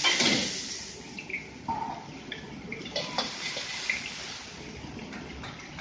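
Chopped green onion and aromatics sizzling in hot oil in a wok. The sizzle flares up loudly as they hit the oil, then settles into a steady sizzle with a few short clicks.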